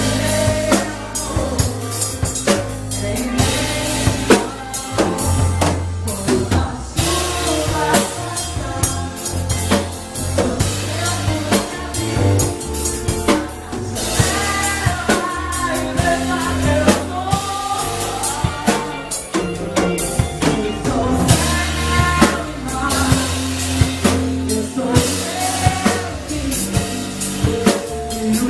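Pop ballad played by a band: a drum kit with bass drum and snare, a bass line and a melody line over them.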